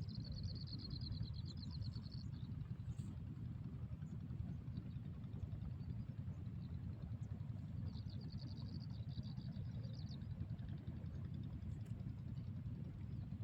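A bird gives a rapid, high trill twice, each about two seconds long, the second about eight seconds in. Under it runs a steady low rumble.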